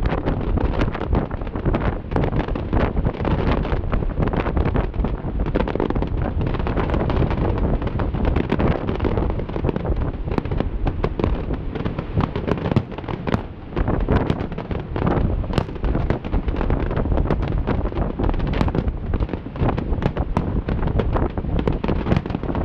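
Fireworks display: a fast, unbroken run of bangs and crackling from aerial shells and fountain effects, many reports overlapping.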